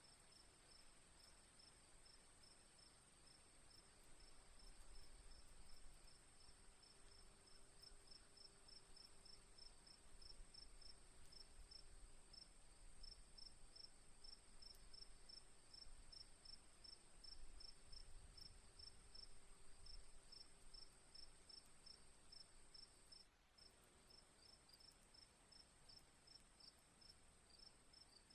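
Faint insect chorus, like crickets: a steady high trill over rapid, evenly repeated high chirps, several a second.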